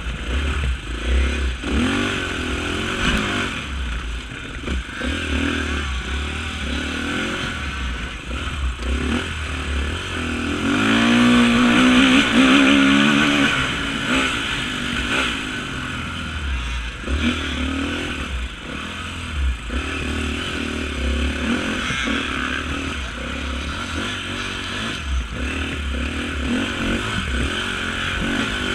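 Off-road motorcycle engine revving up and down, on and off the throttle, over rumbling low thumps. About eleven seconds in, a louder engine note sweeps up and down in pitch for about three seconds.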